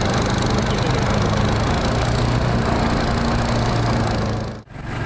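Four-stroke long-tail mud motor running steadily. The sound drops out abruptly for a moment near the end, then resumes.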